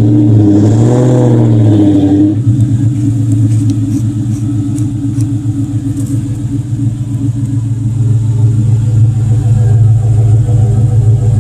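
2001 Ford Mustang SVT Cobra's 4.6-litre 32-valve V8 running. Its revs rise and fall once in the first two seconds, then, after an abrupt change, it settles into a steady, throbbing idle.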